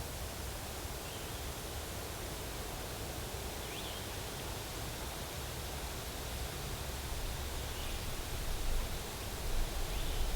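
Steady outdoor background hiss, with a few faint, brief high chirps spaced a couple of seconds apart and a low rumble that rises near the end.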